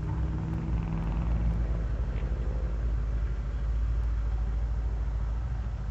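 Stroked 350 small-block Chevrolet V8 in a 1969 Chevelle idling with a steady, pulsing low rumble through tri-Y headers and a 40-series Flowmaster dual exhaust.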